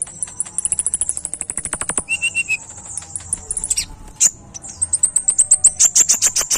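A kolibri ninja sunbird singing: fast, very high-pitched chattering trills and rapid runs of sharp chips at about ten notes a second, with a brief lower three-note phrase about two seconds in.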